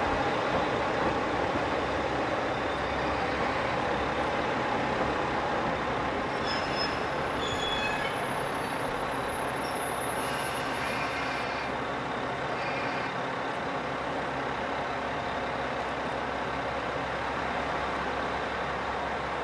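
Diesel train running, a steady rumble of engine and wheels that eases off slightly, with a few faint high tones around the middle.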